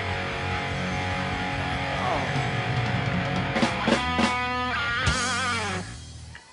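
Live rock band with electric guitar playing the last bars of a song. A lead guitar line with wide vibrato bends comes in, then the band stops near the end, leaving a faint ringing note.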